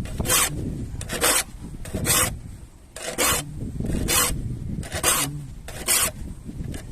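A saw file rasping across the teeth of a vintage hand saw in short, even strokes, about one a second.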